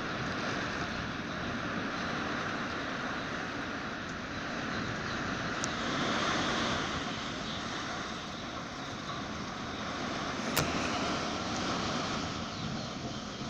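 Strong wind with rain: a steady rushing roar that swells in gusts, loudest about six seconds in. A single sharp click comes near the end.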